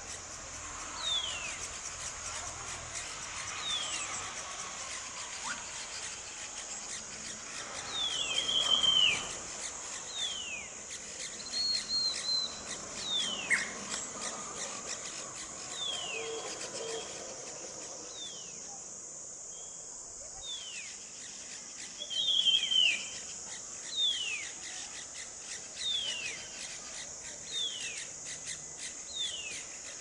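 A small songbird calling over and over with short, clear whistles that fall in pitch, roughly one every second or two. Now and then it gives a louder, buzzier note, most strongly about nine seconds in and again past twenty seconds. A steady high hiss runs underneath.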